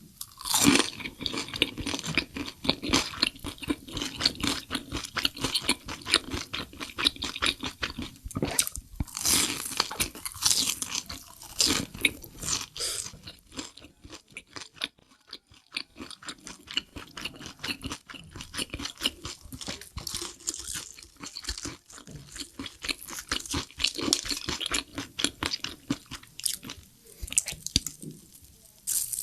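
Chicken being eaten close to the microphone: crunchy bites and chewing, a dense run of sharp crackles that eases off briefly about halfway through.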